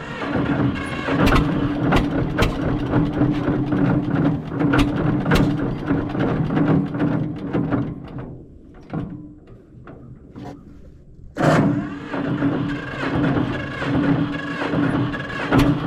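John Deere 630's two-cylinder engine running unevenly. About eight seconds in it sags to a few slow, scattered pops as if about to die, then picks up and runs strongly again about three seconds later. This stumbling is what the owner takes for a slightly dirty carburetor.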